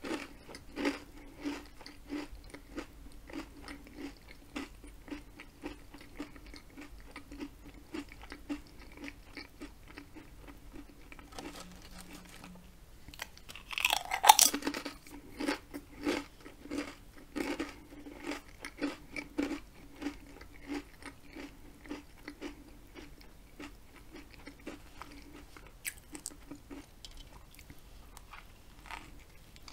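Close-miked eating sounds: steady chewing and repeated crunching of ridged potato chips and a sub sandwich. The loudest crunch comes about halfway through as a chip is bitten.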